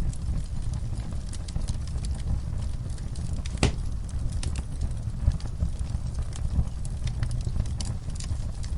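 Fire in a fireplace crackling over a steady low rumble of the flames, with irregular small pops and one sharper, louder pop a little over three and a half seconds in.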